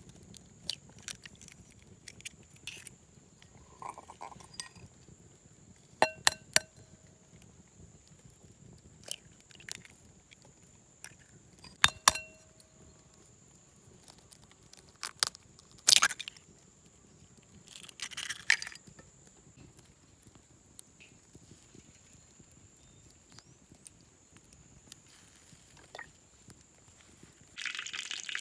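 Scattered clinks and knocks of cooking utensils and containers, a few of them ringing out briefly like struck metal or glass. A steady hiss starts near the end.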